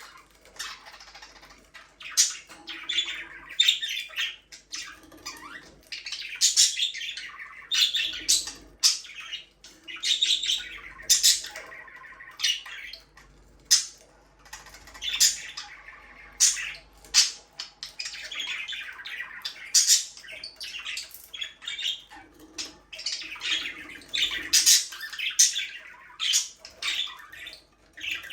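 Budgerigars (budgies) chattering and chirping: a dense, continuous run of short, sharp, high calls and squawks with brief pauses.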